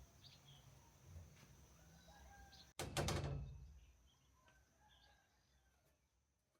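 Faint bird chirps. About three seconds in, a sudden loud rustling burst fades away over a second.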